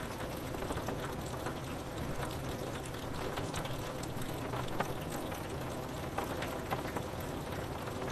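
Rain falling on window glass: a steady hiss dotted with the small, irregular ticks of single drops striking the pane.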